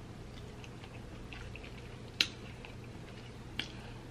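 Close-miked chewing of ribeye steak: faint wet mouth clicks, with two sharper clicks about a second and a half apart, over a low steady hum.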